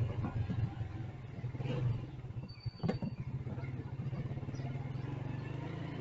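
Motorcycle engine running steadily at low revs amid street traffic, with a short high beep and a sharp click about halfway through.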